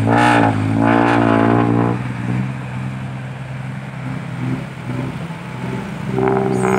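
Diesel dump truck engine working hard with a loud exhaust. It eases off about two seconds in and builds up again near the end.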